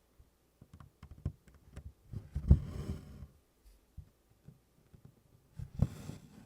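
Close hand-stitching on 24-count Congress cloth: a tapestry needle clicking and tapping through the canvas, with DMC cotton floss drawn through twice. Each pull is a longer rustle lasting about a second, one about two seconds in and one near the end.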